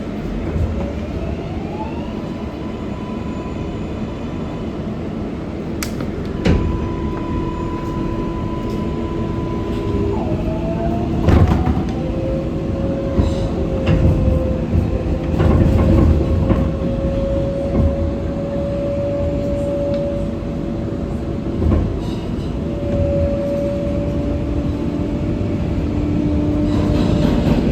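R188 subway train's electric traction motors whining as it accelerates out of the station. The pitch rises in steps during the first couple of seconds, then holds and shifts between steady tones, over a constant rumble of wheels on rail. A few sharp knocks come through about six, eleven and fifteen seconds in.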